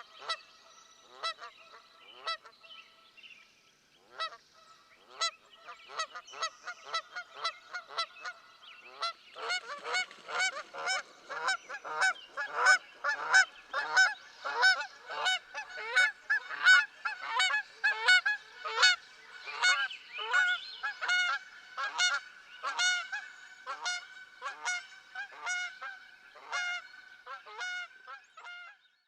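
A flock of flamingos calling with goose-like honks: scattered short calls at first, then many birds overlapping at several calls a second from about a third of the way in.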